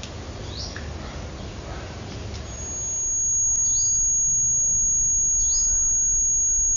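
A bird chirping a few times, short falling notes, over a steady low background rumble. A thin, steady high-pitched tone joins partway through.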